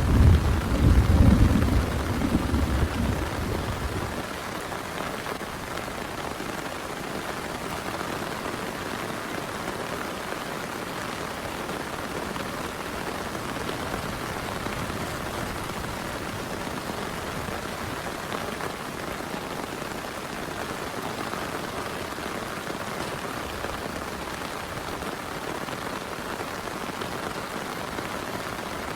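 Heavy rain falling steadily. A low thunder rumble dies away over the first few seconds.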